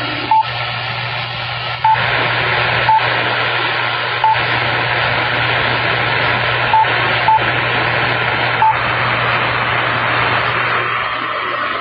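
CB radio receiver on 27.025 MHz giving out loud static hiss with a low hum and a thin steady whistle, broken by seven short beeps as stations key up and unkey across the channel. The whistle cuts out near the end.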